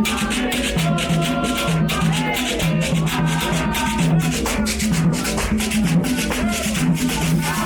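Rhythmic percussion music: a shaker keeping a fast, even beat over low pitched drum notes, with voices singing over it.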